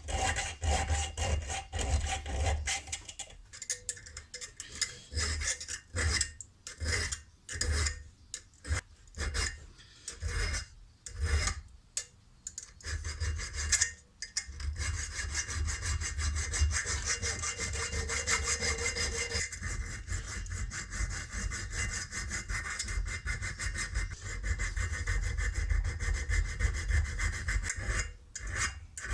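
Hand abrading of a steel spanner: rough back-and-forth scraping strokes of metal being worked by hand. The strokes come one at a time with short pauses at first, then run on almost continuously from about halfway through.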